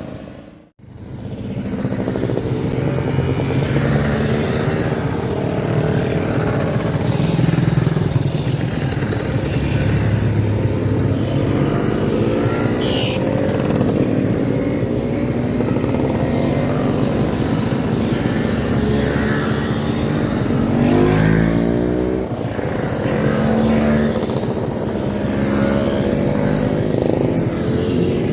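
Several classic motorcycles and Vespa scooters running together, their engines overlapping and rising and falling in pitch as they ride off in a group. The sound drops out briefly under a second in, then runs on.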